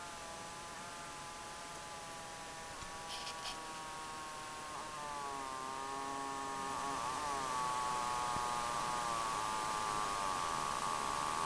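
A faulty Corsair TX650 computer power supply whining: several high tones together that wobble and drift in pitch and get louder, merging into one strong whine near the end. A few faint ticks sound about three seconds in.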